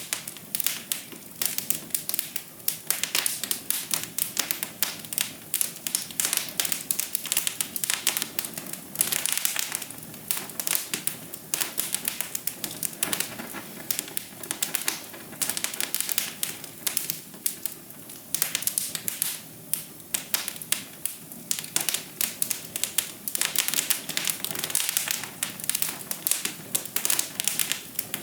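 Fire in a fireplace crackling, with dense, irregular pops and snaps over a soft steady hiss.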